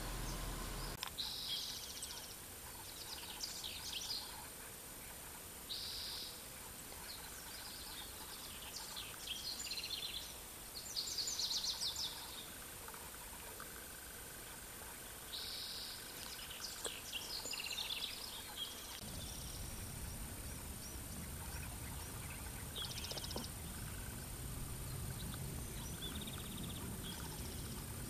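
Wild birds calling in short chirping bursts every second or two over a steady hiss; about two-thirds through, a low rumble joins in.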